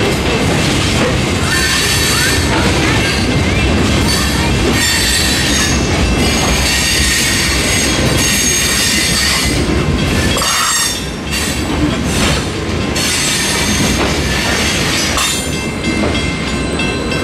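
Freight train of open stone hopper cars rolling past, steel wheels clattering over the rails with high-pitched flange squeal, the last car going by near the end.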